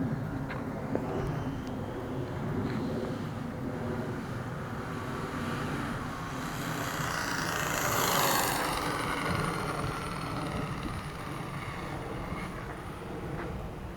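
1/5-scale Redcat Rampage MT radio-controlled monster truck's two-stroke gas engine running as the truck is driven, loudest and brightest about eight seconds in, with wind on the microphone.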